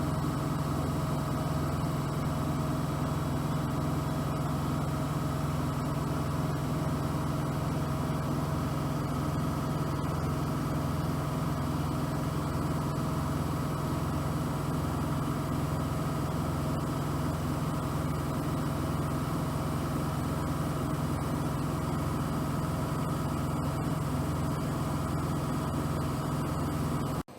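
Bosch WFP3231 front-loading washing machine running: a steady motor hum with a low throb pulsing evenly, cutting off abruptly just before the end.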